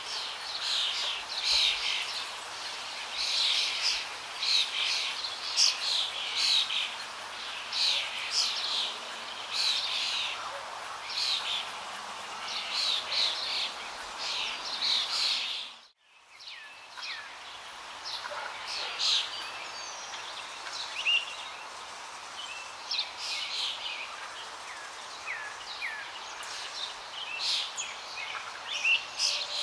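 Songbirds chirping and singing, many short calls overlapping over a steady background hiss. The sound fades out briefly about halfway through and comes back in.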